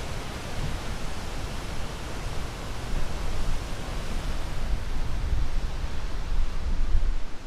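Ocean surf: a steady rushing wash of waves, growing louder over the second half as a wave swells and breaks near the end.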